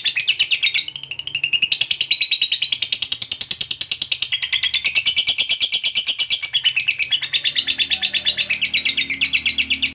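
Lovebird giving a long, unbroken 'ngekek' chatter: a rapid, high-pitched run of about ten chirps a second, briefly softer about a second in. This is the long ngekek trill that fanciers prize in a fighter lovebird.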